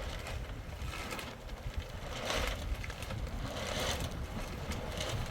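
Strong wind buffeting the microphone with a low rumble, and gusts surging with a rushing noise about every second or so.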